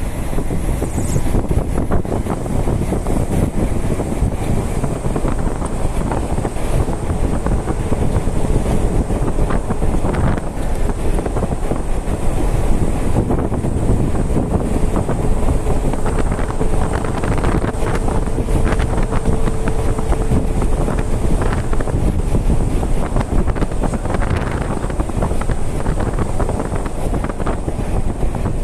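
Steady rush of wind buffeting the microphone over the low rumble of a moving road vehicle.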